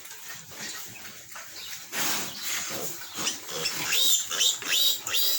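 Young piglets squealing, high-pitched and repeated, getting louder from about two seconds in. These are the distress squeals of two-week-old piglets being handled for castration.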